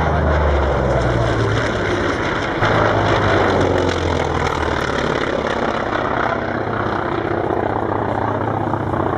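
Piston-engine propeller aircraft flying past, its engine running loud and steady with a rapid pulsing beat.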